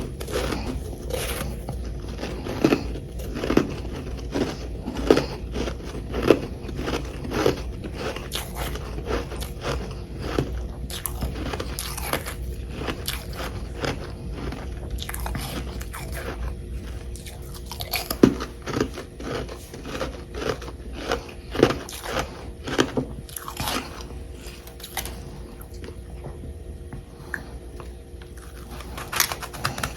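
Close-miked biting and chewing of chunks of packed humidifier frost, a run of crisp crunches one after another that grows sparser near the end.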